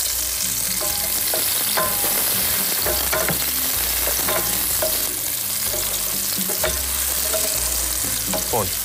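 Sliced spring onion and diced air-dried salami sizzling steadily in hot olive oil in a frying pan, sautéing, with occasional clicks and scrapes as a wooden spoon stirs them.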